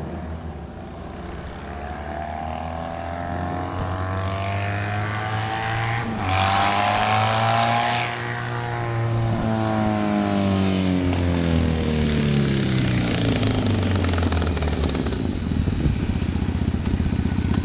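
2005 Triumph Thruxton 900's air-cooled parallel-twin engine through a one-off TT exhaust, its revs climbing smoothly for about eight seconds and then easing back down to a steady idle, growing louder as it goes.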